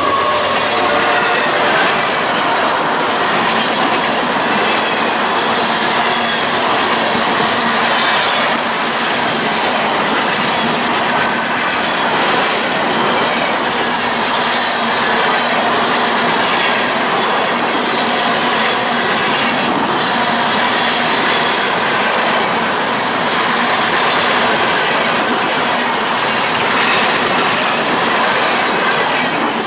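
Railroad cars rolling past, with a steady noise of wheels on rail, clickety-clack over the joints and faint, occasional wheel squeal.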